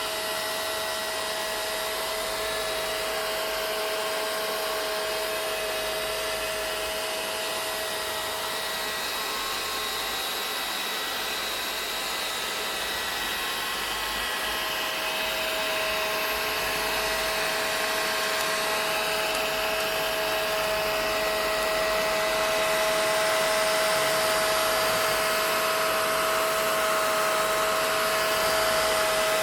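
Vacuum cleaner running steadily: a constant rushing of air with a steady motor whine over it, growing slightly louder about halfway through.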